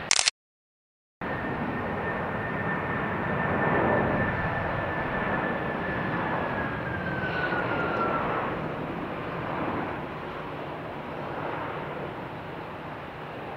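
Jet airliner passing over, its engine noise carrying a steady high whine that drops in pitch about eight seconds in as the plane goes by. Right at the start there is a brief loud burst, then about a second of dead silence from a dropout in the recording.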